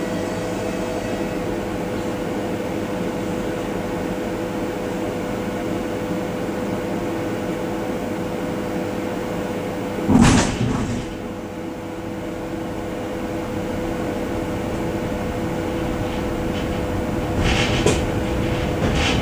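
Suburban train heard from its vestibule, humming steadily while standing. About halfway there is a loud, brief hiss and thud, typical of the doors shutting. A lower tone then joins the hum as the train sets off, and a few wheel knocks come near the end.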